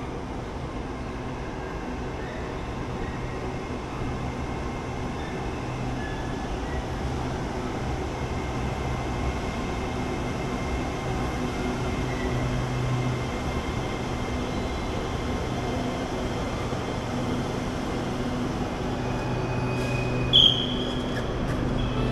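SRT Red Line electric commuter train pulling into the station and coming to a stop: a steady hum and rumble of its motors and wheels that grows slowly louder as it nears. A short high-pitched tone sounds near the end.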